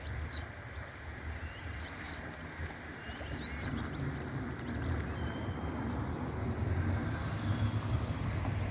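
Steady low wind rumble on the microphone, with a few short, high chirps from birds in the first few seconds and fainter ones later.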